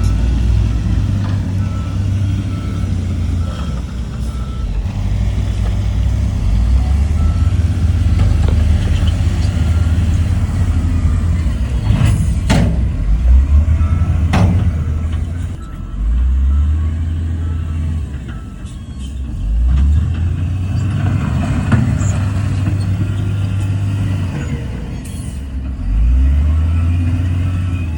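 Heavy diesel earthmoving machinery working, the engine revs rising and falling under load, with a reversing alarm beeping about once a second for the first several seconds. Two sharp knocks come about halfway through.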